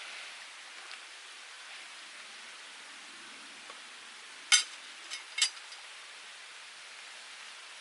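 Small wood fire burning in a twig-burning camp stove: a steady hiss with three sharp cracking pops about halfway through, the first the loudest.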